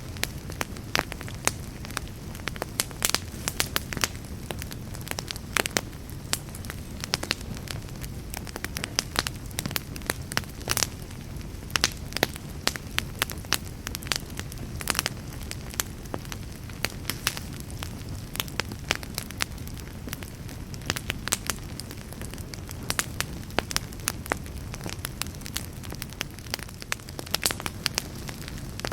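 Fireplace fire crackling: irregular sharp pops and snaps over a low, steady rumble of flame.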